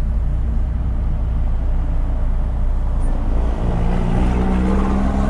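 Car's flat-four boxer engine with reworked exhaust running under way, heard from inside the cabin as a steady low drone. About three and a half seconds in, a stronger pitched engine note comes up as the engine pulls harder.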